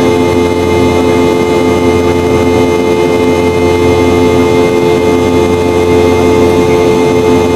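Boeing 717-200's rear-mounted Rolls-Royce BR715 jet engines heard inside the cabin: a loud, steady drone with a steady whine over it.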